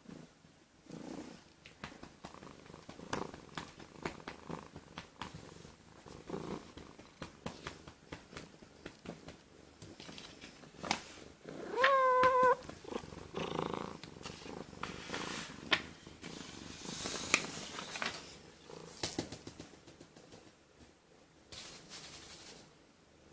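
Domestic cat purring, with scattered light taps and rustles, and one short meow about halfway through that is the loudest sound.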